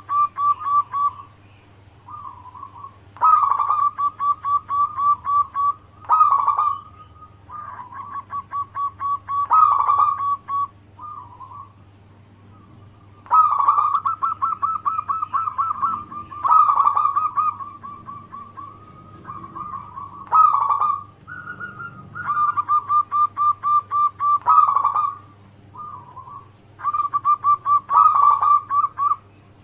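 Zebra dove (perkutut) cooing in full song: phrase after phrase of quick, staccato notes, a new phrase every two to three seconds, over a low steady hum.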